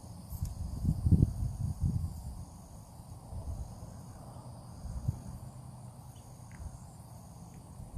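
Crickets trilling in a steady chorus, with a pulsing beat in the high trill. Under it a low rumbling noise comes and goes, loudest about a second in.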